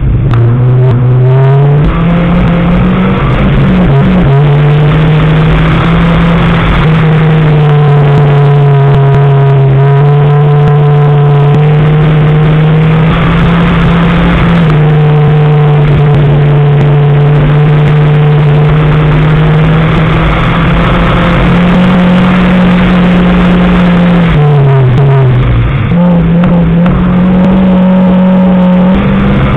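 Mazda 3 competition car's engine heard loud from inside the car, held at high revs and pulling hard through the gears. Near the end the revs drop briefly and then climb again.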